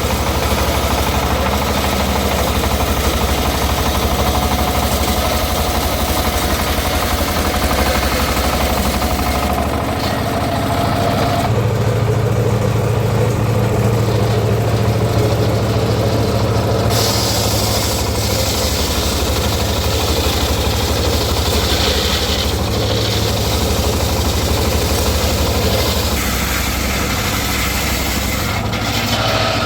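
Engine-driven homemade circular sawmill running steadily with a low, even engine hum. A brighter hiss joins from about 17 to 26 seconds in.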